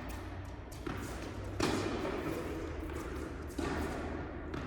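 Tennis ball impacts on an indoor court: about five echoing thuds roughly a second apart, the loudest about a second and a half in, as the ball is struck and bounces. A steady low hum runs underneath.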